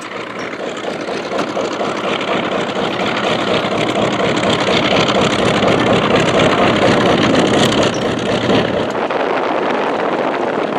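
Vought F4U Corsair's Pratt & Whitney R-2800 radial engine running as the plane flies past, growing louder for about six seconds and then easing off slightly.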